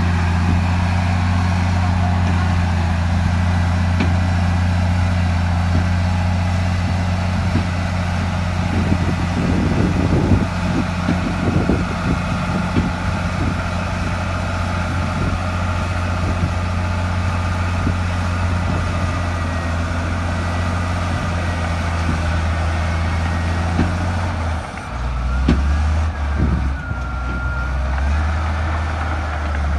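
Heavy diesel engine of an earthmoving machine running steadily under load. From about 8 to 14 seconds in there is a run of clanks and cracks, and about 25 seconds in the engine note drops and changes.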